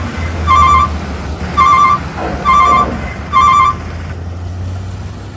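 Heavy-haul truck with an excavator on its lowboy trailer: an electronic warning beeper sounds about once a second, four beeps, over the low steady rumble of the truck's diesel engine. The beeps stop about four seconds in while the engine rumble goes on.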